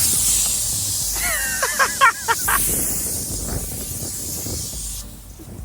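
A loud, steady hissing spray that starts suddenly and cuts off about five seconds in.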